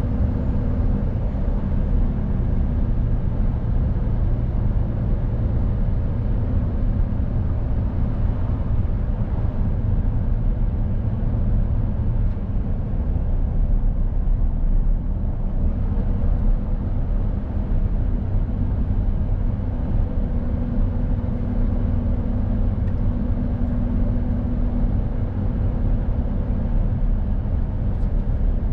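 Mercedes Actros truck's diesel engine running under way, a steady low rumble with road noise. Its engine tones shift a couple of times around the middle as the revs change.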